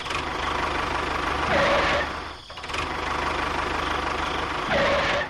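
Small engine of a homemade mini tractor cultivator running steadily with a fast, even firing beat, swelling louder twice.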